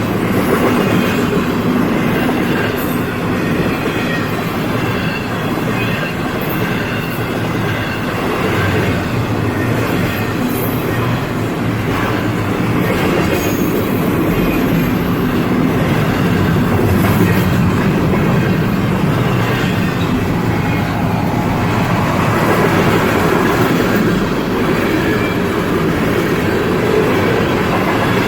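A train passing on the tracks: a loud, steady rumble of wheels on rail with a few brief high squeals.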